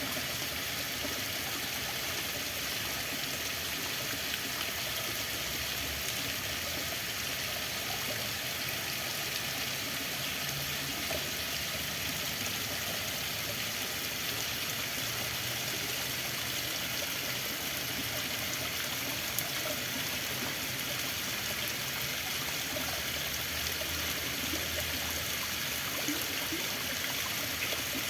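Water flowing steadily, an even, unbroken splashing hiss that stays level throughout.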